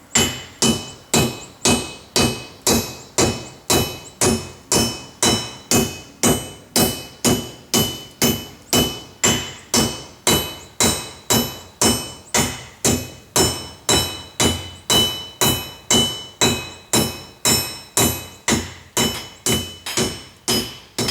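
Ball peen hammer blows on a steel disc, dishing it into a bowl: steady strikes about two a second, each with a bright metallic ring.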